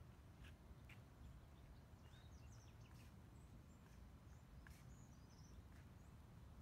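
Near silence: faint outdoor ambience with a low steady rumble and a scattering of small birds' short, high chirps.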